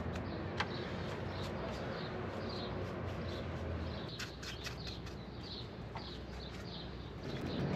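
Outdoor ambience: a bird calling over and over in short high chirps, over a low steady hum that fades out about four seconds in.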